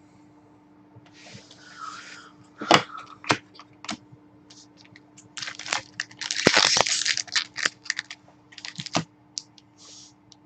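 Trading-card packaging being handled: crinkling and tearing rustles with many sharp clicks and taps, loudest a bit past the middle.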